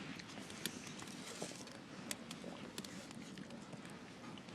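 Bonfire crackling faintly: scattered sharp pops and clicks over a steady low hiss.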